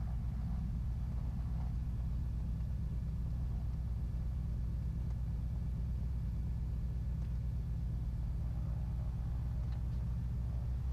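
The twin piston engines of a Beechcraft Baron B55 running steadily at low power, a low, even drone heard inside the cabin.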